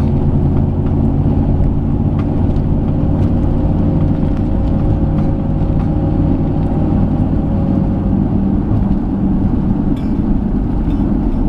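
2008 Jeep Commander's 5.7 Hemi V8 and road noise heard from inside the cabin on a test drive, the engine pulling steadily while the 545RFE automatic works up through the gears toward fourth.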